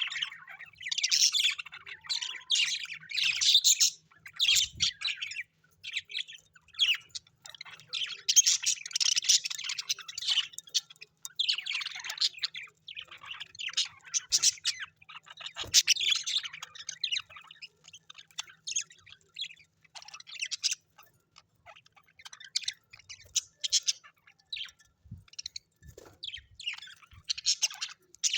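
Several birds chirping and squawking in quick, overlapping chatter. It is busiest in the first half and thins out to sparser calls after the middle.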